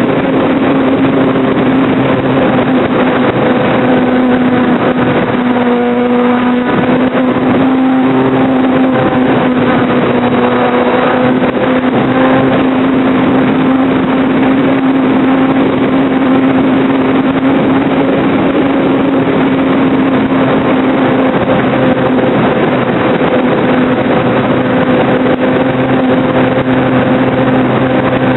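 Onboard sound of a radio-controlled Cessna model plane in flight: the motor and propeller hum steadily over a heavy rush of wind, with a brief change in the tone about six seconds in.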